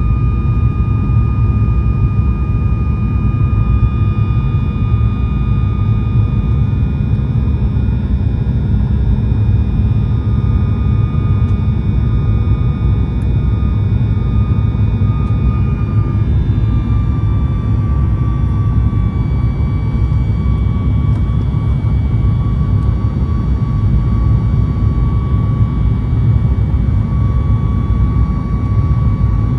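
Boeing 737 MAX 8 with CFM LEAP-1B engines at full power, heard inside the cabin: a steady loud roar with a high engine whine on top. About halfway through, the whine's pitch drops slightly and stays there.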